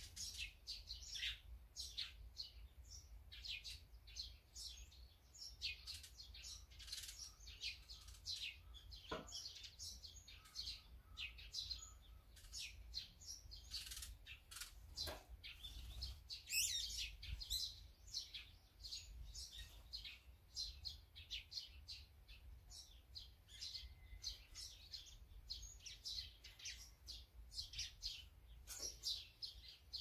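Small songbirds chirping, with many short, quick, high chirps overlapping throughout, over a faint low background rumble.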